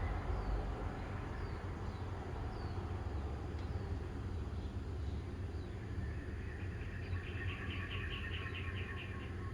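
Small birds calling over a steady low rumble: short high chirps about once a second, then a rapid trill near the end.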